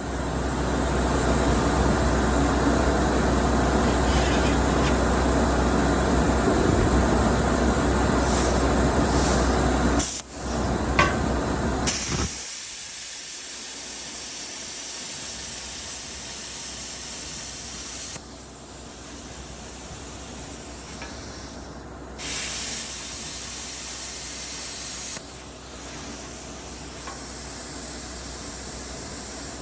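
Plasma cutter cutting steel plate: a loud steady hiss over a low hum for about twelve seconds. Then a quieter, thinner air hiss that stops and starts several times.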